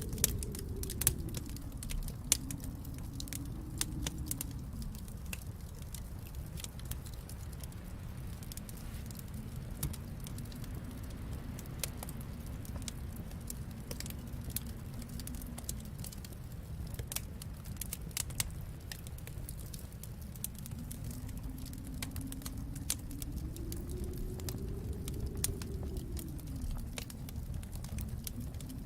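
Wood fire crackling in a fireplace, with scattered sharp pops over a steady low rumble that slowly swells and fades.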